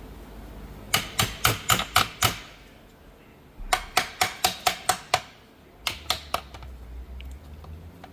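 Light hammer taps on the shifter selector of a Honda Prelude five-speed manual transmission, used to knock the part loose. The taps come in three quick runs of about five a second (seven, then seven, then three), each with a short metallic ring.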